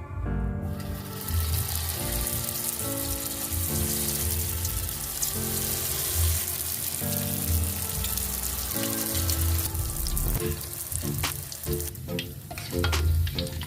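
Hot oil sizzling steadily as banana rolls wrapped in spring-roll skins deep-fry, starting about a second in. Several sharp clicks near the end.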